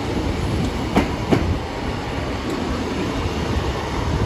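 Class 150 Sprinter diesel multiple unit rolling past, with a steady low rumble and two quick wheel clicks over a rail joint about a second in.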